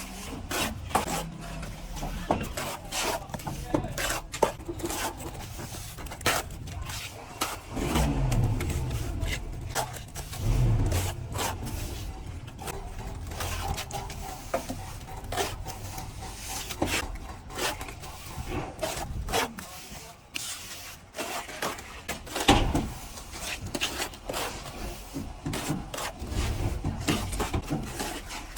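Plastering tools scraping and knocking, with irregular clicks and scrapes. A low rumble that falls in pitch comes in about eight seconds in and fades by about eleven seconds.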